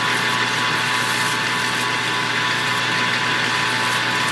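Metal lathe running steadily, its motor and spindle giving an even hum with a steady whine, while a turning cut is fed on the workpiece.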